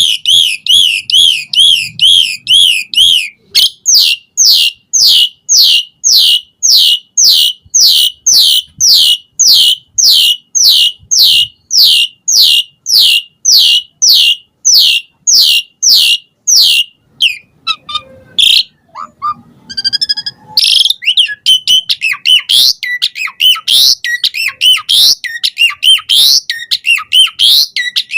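Asian pied starling (jalak suren) singing. It opens with a fast trill, then gives a long run of repeated falling whistles, about two a second, and breaks into varied chattering song for the last third.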